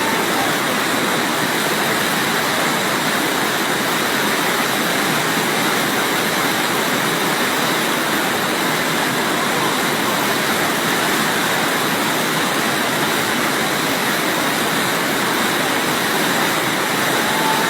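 The Rhine Falls: a steady, loud rush of water pouring over the falls.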